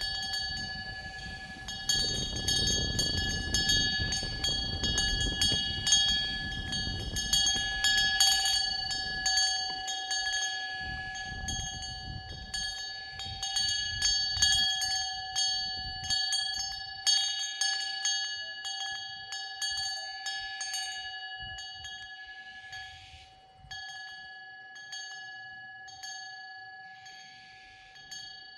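Metal wind bell (pungyeong) ringing in the wind: repeated clinking strikes about once a second, each ringing out over a steady high ring. A gust of wind rumbles through the first third.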